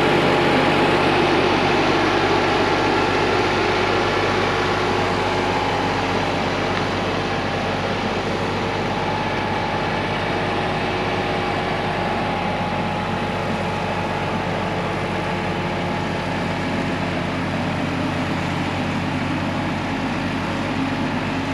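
A vehicle engine running steadily, easing off a little in loudness over the first several seconds.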